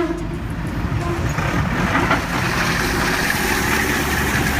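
A heavy machine's engine running, with a harsher, hissing stretch joining in from about a second and a half in.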